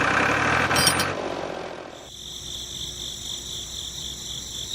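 A machine noise fades out over the first two seconds. Then a steady, high-pitched, evenly pulsing chirr sets in.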